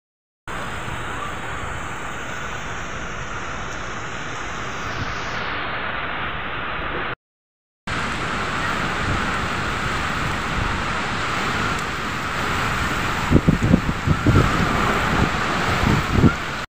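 Heavy rain pouring steadily in strong wind, in two takes split by a short silent gap. In the last few seconds, gusts of wind rumble on the microphone.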